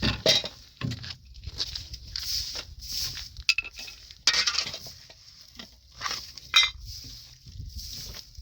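Metal objects clinking and knocking as they are handled, with two brief ringing clanks.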